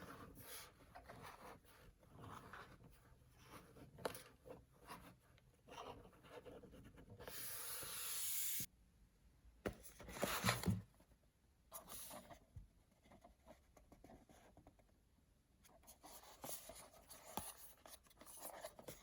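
Hands handling and opening paper blind bags and toy packaging: scratchy paper rustling and crinkling with small clicks. About seven seconds in comes a longer steady rustle that stops abruptly, and around ten seconds a louder bump of handling.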